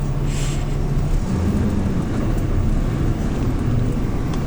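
Hyundai New Super Aero City CNG city bus engine running under way, heard from inside the bus. Its low note rises about a second in and falls back near the end, with a brief hiss near the start.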